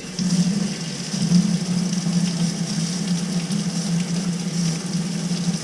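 Sink faucet running hot water in a steady stream, with a steady low hum from the plumbing under the flow.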